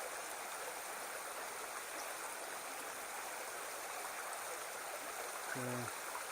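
Small burn rushing steadily over little falls and rapids between deep pools. Near the end there is a brief low hum, like a person's voice.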